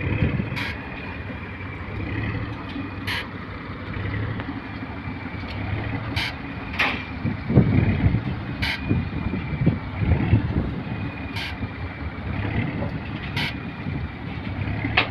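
A rail maintenance vehicle's engine runs steadily, with a faint high whine and sharp clicks every one to three seconds.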